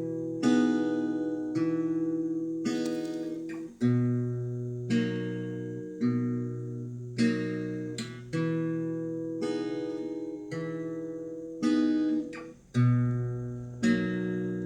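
Acoustic guitar strumming chords as an instrumental interlude, one chord about every second, each left to ring and fade.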